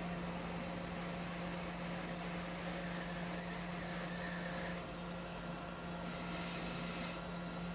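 Hot air rework station running steadily, its blower giving a constant hum with air hiss while solder on a circuit board pad is melted. The hiss brightens for about a second near the six-second mark.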